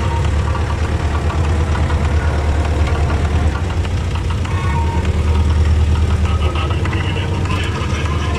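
T-40 tractor's diesel engine running steadily with a low, pulsing knock.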